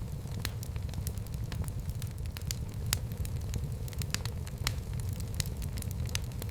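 Wood fire burning in a fireplace: steady low rumble of the flames with frequent irregular crackles and pops.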